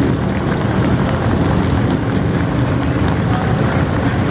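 A group of police motorcycles running together at low speed, their engines making a steady low drone.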